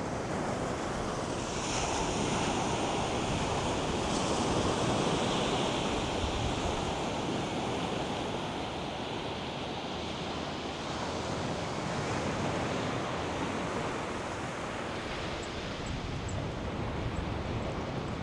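North Sea surf breaking and washing up a sandy beach in a steady rush. The wash swells about two seconds in and again a few seconds later, with wind buffeting the microphone.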